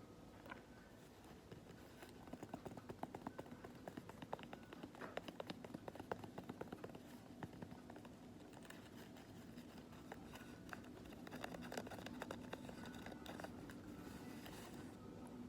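Quiet, close-up hand sounds: skin rubbing and handling with dense clusters of fine crackling clicks, busiest in the first half and again toward the end.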